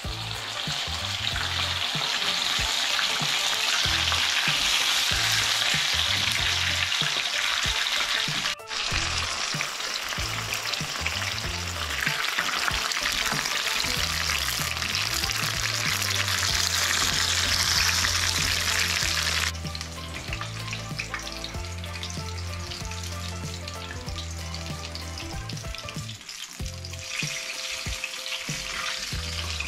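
Sweet green peppers frying in hot oil in a nonstick pan, sizzling steadily while a plastic spatula stirs and turns them. The sizzle cuts out for a moment about a third of the way in, and gets quieter about two-thirds of the way through.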